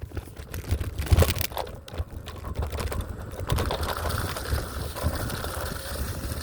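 Electric scooter rolling over a rough, rocky trail: a clatter of rattling clicks and knocks, giving way about halfway through to a steadier running noise over a low rumble.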